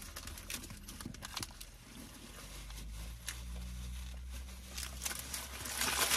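Close-up chewing and mouth sounds of people eating burgers: many small clicks and smacks, with a louder rustle near the end. A low steady hum runs underneath.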